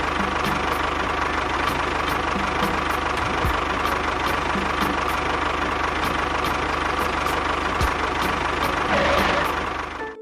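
A small engine running steadily with a rapid low pulsing. It swells briefly near the end, then cuts off suddenly.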